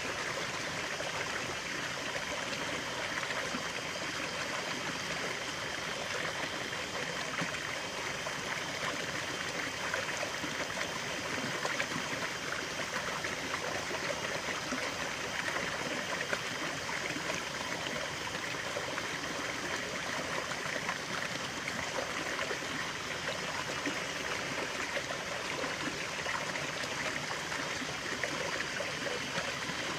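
Running water of a small stream, a steady babbling and trickling.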